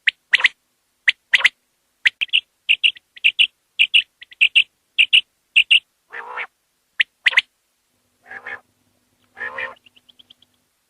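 Common quail calling. First comes a run of short, sharp, liquid notes, single and in quick pairs, about two a second. In the second half come a few longer, lower, rasping calls and a faint quick trill of high ticks.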